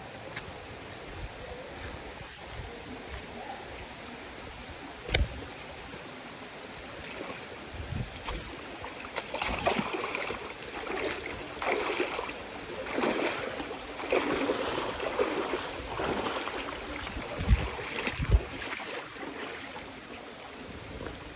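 Footsteps and rustling of someone walking a jungle trail, over a steady high-pitched insect drone. There is a sharp click about five seconds in and a couple of low thumps near the end.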